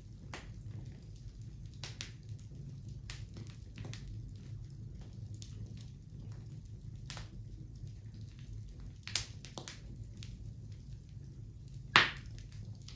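A fire crackling with irregular sharp pops over a steady low rumble; two pops stand out, about 9 and 12 seconds in.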